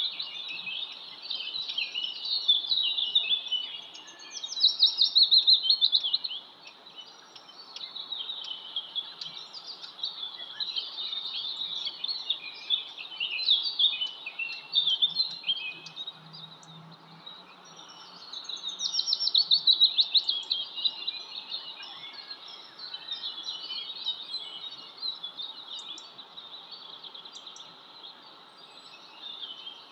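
Birdsong chorus: several small birds chirping and singing at once, with bursts of fast repeated trilling about four seconds in and again near the twenty-second mark.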